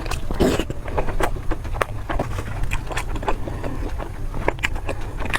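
Close-up eating sounds: irregular crunchy bites and chewing clicks, with a louder crunch about half a second in, over a steady low hum.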